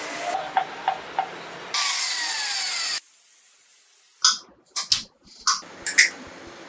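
Workshop tool sounds in quick cuts: a power tool running with a falling whine for about a second, then several short, sharp scrapes and knocks.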